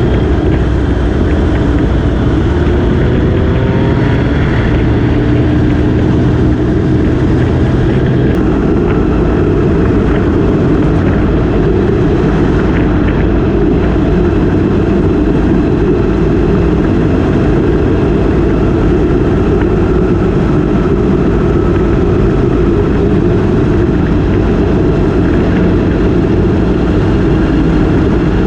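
Motorcycle engine running on the move, mixed with heavy wind rush, a loud steady drone; a few seconds in the engine pitch rises briefly.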